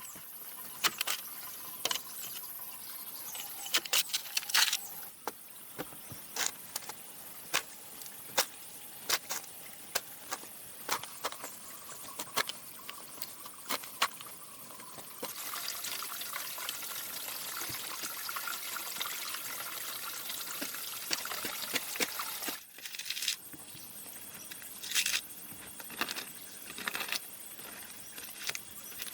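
Irregular sharp knocks and taps, about one a second, over a steady high hiss. Around the middle a louder rushing hiss comes in and cuts off suddenly about three-quarters of the way through.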